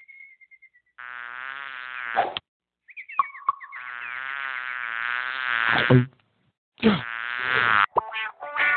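A fly buzzing in three stretches of a few seconds each, its pitch wavering, the last stretch rising in pitch.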